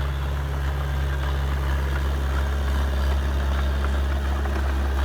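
Heavy earthmoving-machine engine, of a bulldozer or dump truck, running steadily at an even, low-pitched rumble.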